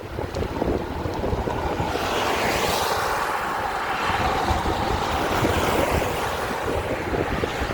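Wind rumbling on the microphone, with a broad rushing noise that swells about two seconds in and eases off near the end.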